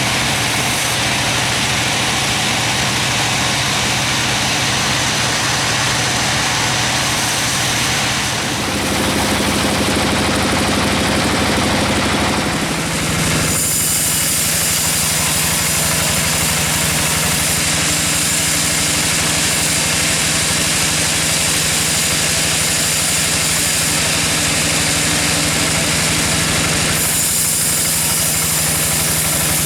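Engine-driven sawmill machinery running steadily. Its pitch and character shift twice, about a third of the way in and again near the middle.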